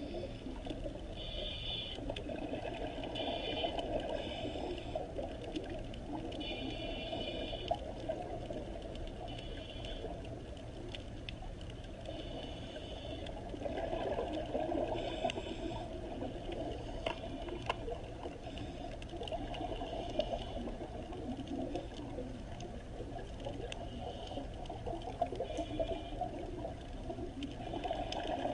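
Flowing water, like a running stream, with short high-pitched calls coming and going every second or two.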